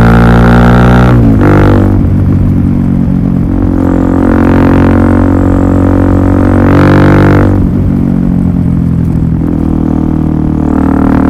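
Suzuki DR-Z400SM single-cylinder four-stroke engine running through a Yoshimura full exhaust system, holding a steady engine speed. The engine speed drops sharply about a second in and again past the halfway point.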